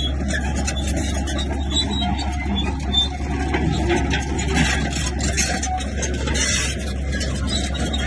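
Komatsu bulldozer working: a steady diesel engine drone with rattling and scraping from the machine, heavier in the middle few seconds.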